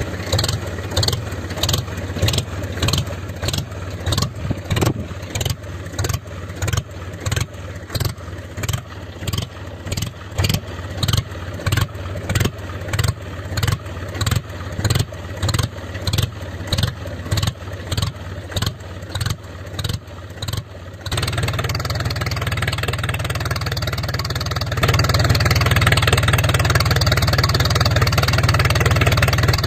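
Small engine of a homemade mini tractor chugging slowly with regular beats about twice a second. About 21 seconds in it picks up to a steady run, and it gets louder again a few seconds later as it is throttled up.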